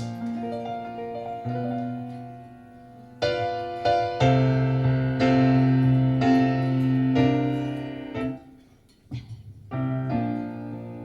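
Recorded piano music: slow chords and melody notes struck and left to ring, with a short pause just before the last few seconds. The music is played back through a car's custom audio system and recorded inside the cabin.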